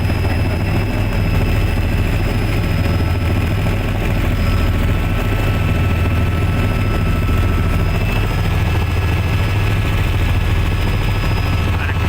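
Helicopter rotor and engine running steadily: a loud, continuous low drone with a regular beat from the blades, heard from inside the cabin.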